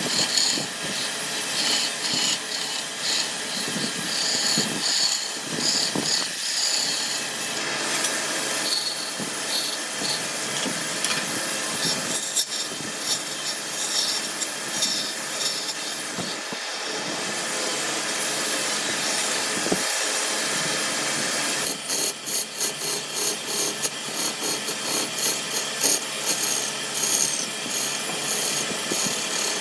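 A power tool working wood, with a continuous scraping, rasping sound; its texture changes about a quarter of the way in and again about three quarters through, where it turns into quick repeated strokes.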